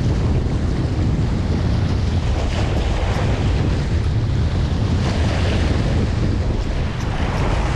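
Strong wind rumbling steadily on the microphone, over the wash of waves.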